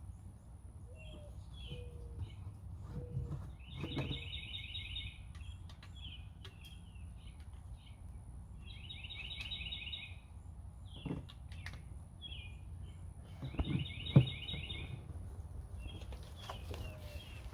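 A songbird singing a short trilled phrase about every five seconds, with shorter chirps between, over a low steady background rumble. A single sharp knock about three-quarters of the way through.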